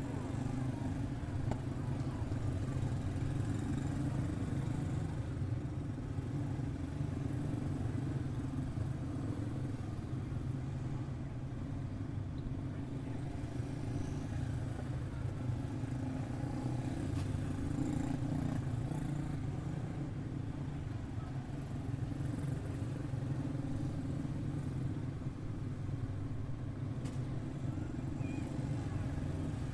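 A pack of quarter midget race cars running on the track, their small single-cylinder Briggs & Stratton Animal engines making a steady, continuous drone that swells and fades slightly as the cars circle.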